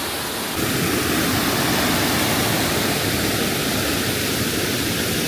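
Small waterfall running, a steady rush of falling water that gets louder about half a second in.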